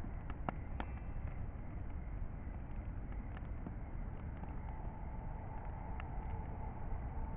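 Wood bonfire crackling, with sharp pops here and there over a steady low rumble.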